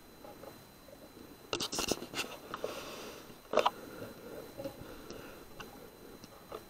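Sharp mechanical clicks and knocks from the HW100 air rifle and its scope-mounted recorder being handled: a cluster of clicks about a second and a half in, then one louder crack about three and a half seconds in, followed by a few light ticks.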